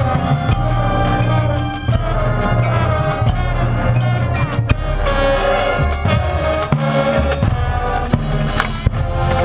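Marching band playing: brass chords held over drums and percussion, loud and steady.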